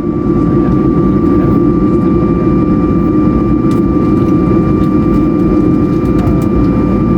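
Airbus A220-100's Pratt & Whitney PW1500G geared turbofan engines running steadily at taxi power, heard inside the cabin: a constant low rumble with a thin steady whine above it.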